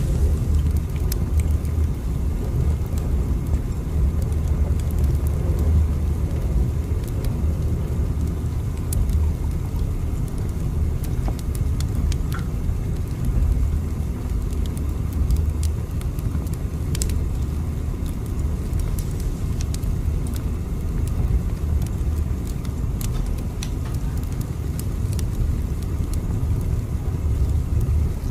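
Moving train's steady low rumble, with scattered faint clicks and rattles throughout.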